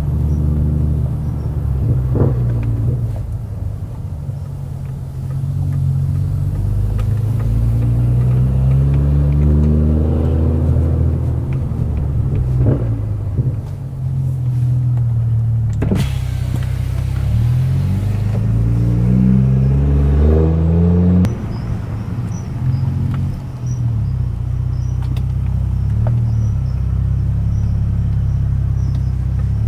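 Stage 2+ tuned BMW F10 535i's turbocharged inline-six with a very loud exhaust, under way. The engine note climbs repeatedly under acceleration and drops back at each gear change or lift-off, with one sharp crack about 16 seconds in.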